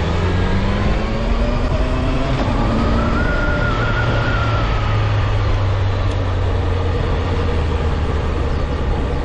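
Honda CB650F inline-four engine running on the move, its pitch climbing over the first few seconds, then easing down, under a heavy rush of wind noise.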